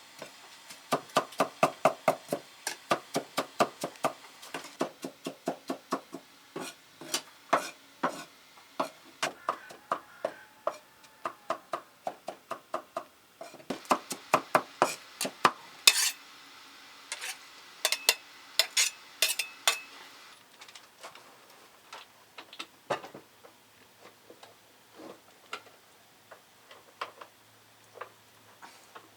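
Kitchen utensils knocking during food preparation. A quick, regular run of strikes comes about four or five a second, then sharper, ringing clicks, thinning out toward the end.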